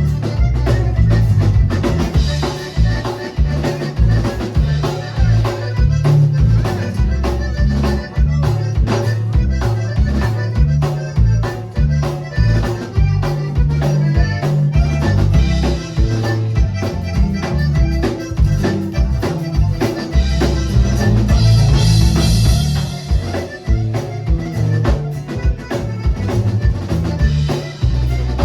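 Accordion played with a live band, the drum kit keeping a steady beat over a heavy low end.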